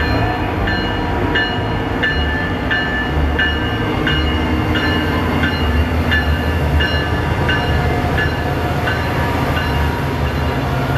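CSX diesel locomotives rolling slowly past with engines rumbling, while a locomotive bell rings steadily about one and a half times a second, fading near the end as the passenger cars follow.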